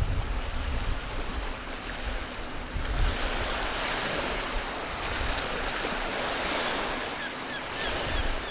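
Wind blowing in gusts across the microphone, rumbling, over a steady rushing of wind that grows fuller about three seconds in.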